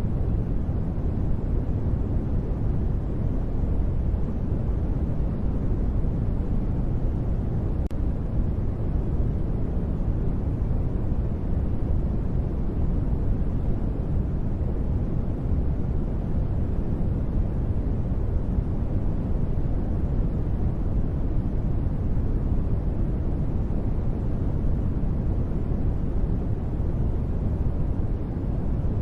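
Continuous synthetic sleep noise, sold as white noise but a deep, even rush that is strongest in the bass and fades toward the treble. It does not change or break.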